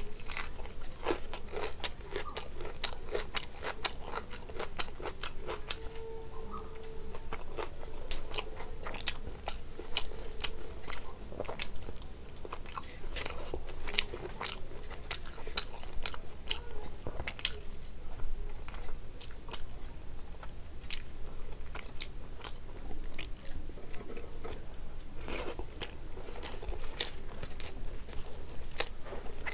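Close-miked eating: a person chewing and crunching food, with a dense, irregular run of wet mouth clicks and smacks.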